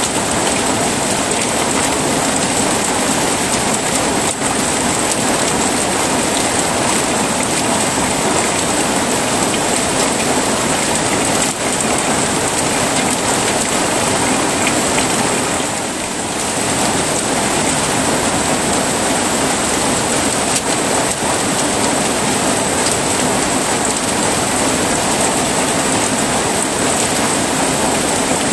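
Heavy rain falling steadily, a dense, even hiss with a brief slight lull about half-way through.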